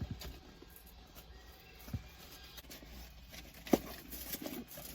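Quiet handling noises as a headlight restoration kit's cardboard box is opened: a dull tap about two seconds in, one sharp click a little later, then a few light ticks.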